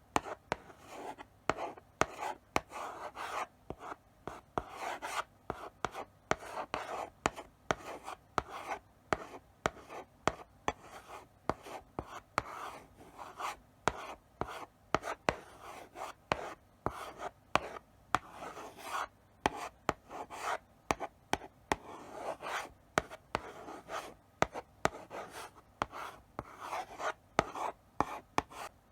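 Chalk writing slowly on a blackboard: short scratchy strokes, each starting with a sharp tap of the chalk on the board, separated by brief pauses.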